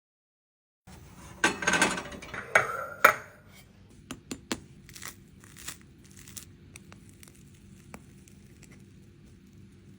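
Kitchen handling noises: crinkling and rustling with a sharp knock about three seconds in, then scattered light clicks and taps over a faint steady hum.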